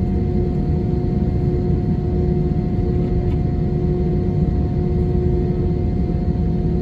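Steady low rumble of an Airbus A320's jet engines and airflow heard from inside the passenger cabin, with a constant hum at two pitches on top.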